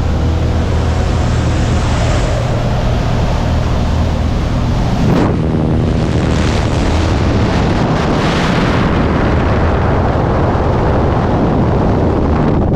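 Cessna jump plane's engine running steadily with slipstream rushing past the open door, then a sudden knock about five seconds in as the skydivers leave the aircraft. After that the engine fades and heavy freefall wind buffets the microphone.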